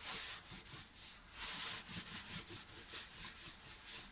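Repeated hissy rubbing strokes over a plywood camper floor, baby powder being spread by hand across the repair so the adhesive won't stick to anything laid on it.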